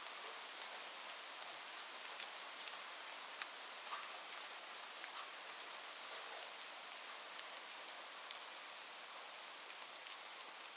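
Steady rain, an even hiss with scattered sharp drop ticks a few times a second.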